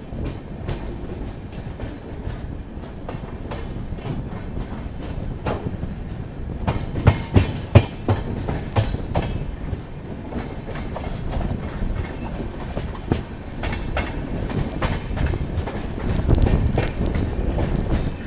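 Moving passenger express train heard from the side of one of its coaches: steady rumble of the wheels with a clickety-clack over the rail joints, including a run of loud clacks about seven to eight seconds in.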